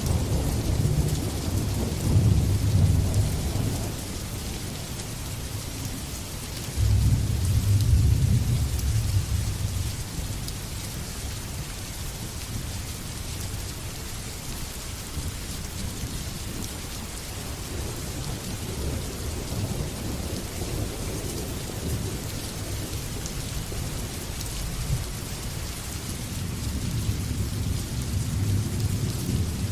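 Steady rain falling, with rolling thunder rumbling low under it. One peal breaks in suddenly about seven seconds in and dies away over a few seconds, and another rumble builds near the end.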